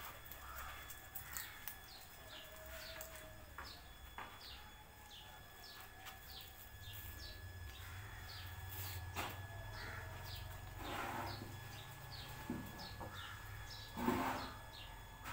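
A small bird chirping over and over in short falling chirps, about two a second, over a faint steady high tone. A short scuffing noise near the end is the loudest moment.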